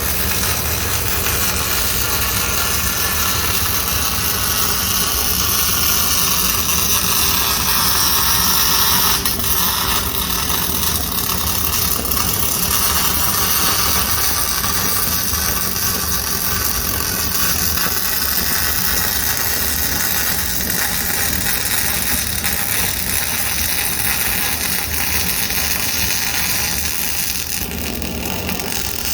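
MIG welding arc running steadily: a continuous dense, noisy sound with a low steady hum beneath it, easing slightly near the end.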